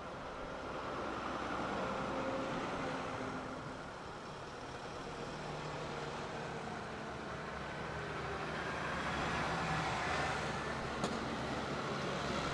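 Tractor engines running steadily, the drone swelling louder twice, with one sharp click near the end.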